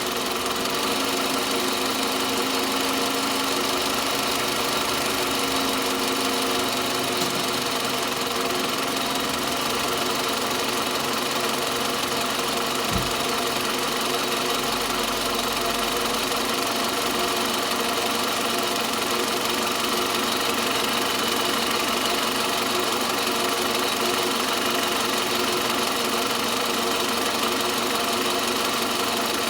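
Toyota Camry XV40's 2.4-litre four-cylinder engine (2AZ-FE) running steadily with a constant ringing knock from around the alternator. A single sharp click sounds about halfway through.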